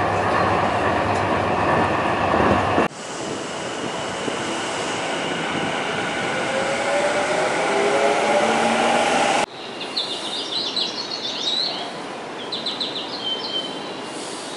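Seibu Ikebukuro Line train: first the loud running rumble heard from inside a moving train, then, after a sudden cut, a train at a station platform with its motor whine rising in pitch as it pulls away. After a second cut the train noise is quieter, with clusters of short high chirps over it.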